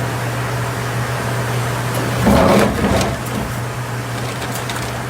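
Steady low hum of workshop machinery, with a louder, rougher burst of machine noise a little over two seconds in that lasts about half a second.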